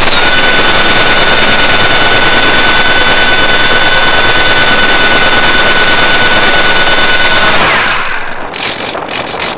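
Radio-controlled air truck's motor and propeller running at full throttle close to the microphone: a steady high whine over a fast buzzing rattle. About eight seconds in it winds down, the whine falling in pitch, and then a quieter mechanical rattling follows.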